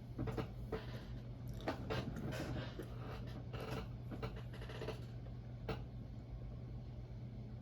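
Close-up chewing of pancakes: soft, wet mouth clicks and smacks in clusters through the first five seconds or so, with one more near the end, over a steady low hum.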